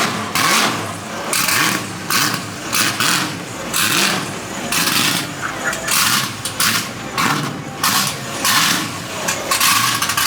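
A car engine revved hard again and again in short, uneven blips, over a steady low rumble.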